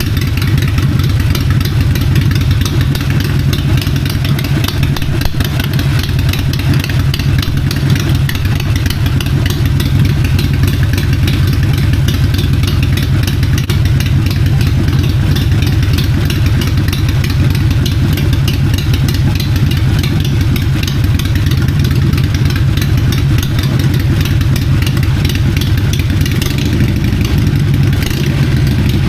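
2008 Harley-Davidson Sportster 883's air-cooled V-twin idling steadily, warming up so the freshly changed oil can be checked hot.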